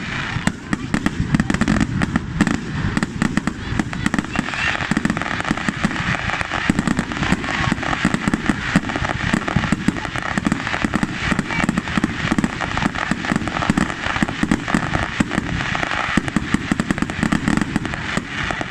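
Fireworks crackling and popping in a rapid, continuous run, with voices underneath.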